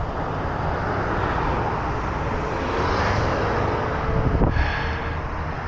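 Steady rushing of traffic and wind noise around a moving bicycle, swelling about three seconds in as a vehicle seems to pass, with a brief high whine shortly after.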